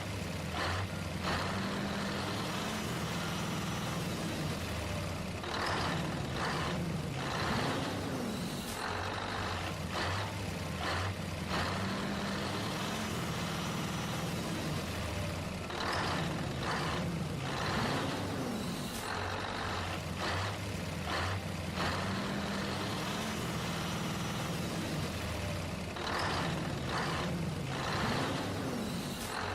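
Truck-like engine running steadily, in a sound pattern that repeats about every ten seconds like a loop.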